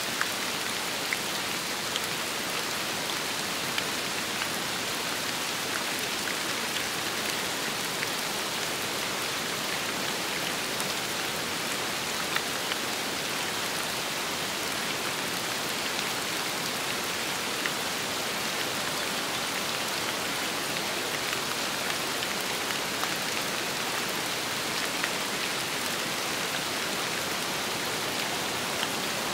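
Steady rain falling, an even hiss with scattered louder single drops ticking through it.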